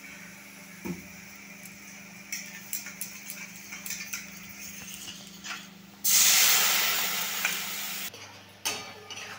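Chopped onions frying in oil in a kadai, with a metal spatula scraping and stirring. About six seconds in, spice paste mixed with water goes into the hot oil and sets off a loud, sudden sizzle that fades over about two seconds and then stops abruptly.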